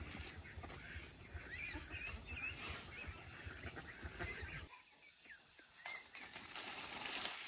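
Birds chirping repeatedly in short, curling calls over a steady high insect drone, with a low rumble underneath that cuts off abruptly a little past halfway.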